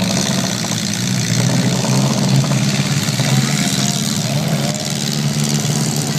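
Several mini-class demolition derby cars' engines running and revving together, a loud steady din with no single crash standing out.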